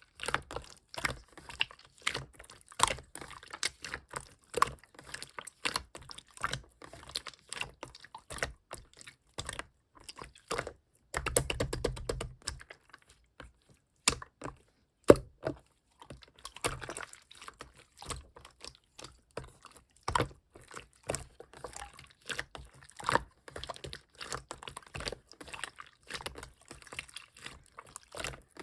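Pink clear slime being worked by hand, making irregular sticky clicks and small pops. There is a denser run of squishing a little before halfway.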